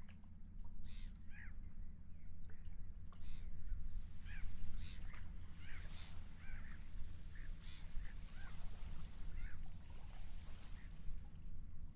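Seagulls calling, many short calls in a flurry through the middle, over a steady low rumble.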